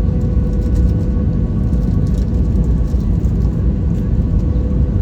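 Airbus A320 airliner heard from inside the passenger cabin: a steady, loud low rumble of airflow and engines, with a steady hum from the engines over it.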